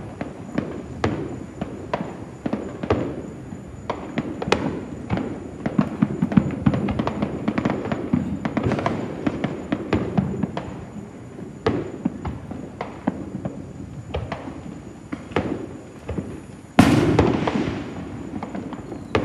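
Fireworks going off across the neighbourhood: a continual run of pops, cracks and rumbling booms from many aerial shells. A sudden, louder hissing burst comes near the end.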